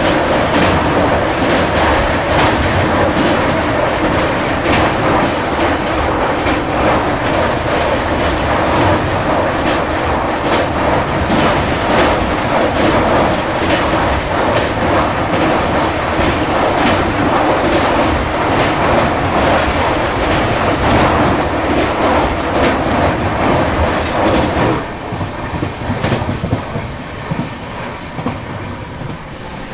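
Rajdhani Express coaches running over a steel truss railway bridge: a loud, dense rattle of wheels on the rails with rapid clacks. About 25 seconds in the sound drops suddenly as the train comes off the bridge onto plain track.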